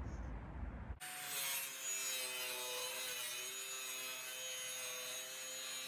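Power saw cutting through a plywood sheet: after a second of low rumble, a steady motor whine with a hiss of cutting starts abruptly and runs on at an even pitch.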